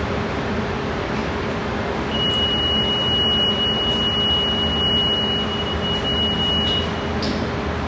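A single high-pitched electronic beep, held for about four and a half seconds with a brief break near the end, starting about two seconds in, over a steady background hum.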